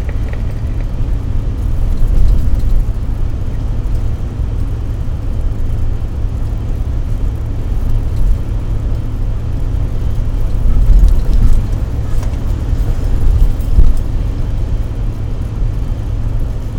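Car driving on the road: a steady low rumble of engine and road noise that swells a few times.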